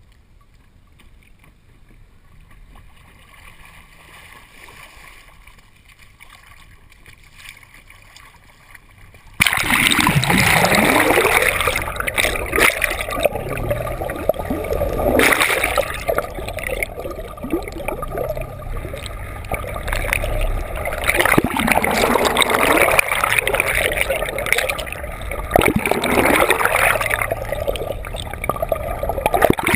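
Water splashing and gurgling right against a GoPro in its waterproof housing, with repeated swooshing surges. It starts abruptly about nine seconds in, after a stretch of faint, quiet background noise.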